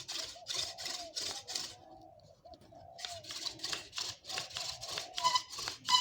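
Hand drill spindle spun between the palms on a wooden fireboard, rubbing back and forth about three strokes a second with squeaking at each stroke. The drilling stops for about a second, two seconds in, then starts again. The spindle is warming up the hearth board.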